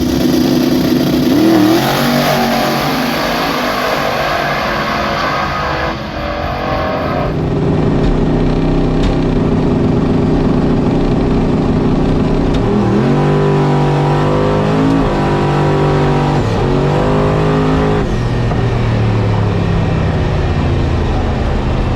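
Turbocharged LS V8 of an S10 drag truck running hard down the drag strip. The engine note dips and climbs again several times in the second half.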